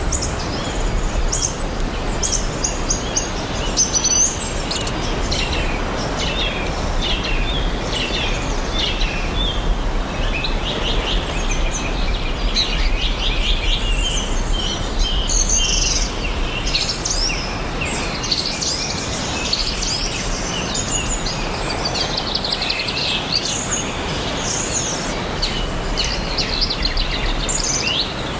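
Several songbirds chirping and trilling almost without pause, over a steady outdoor hiss and a low rumble.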